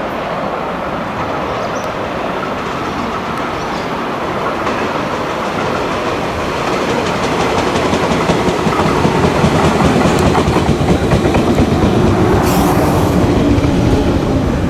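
A three-car 413 series electric train approaching and pulling in, its wheels clattering over the rail joints and growing steadily louder. A steady hum at a few pitches joins in near the end.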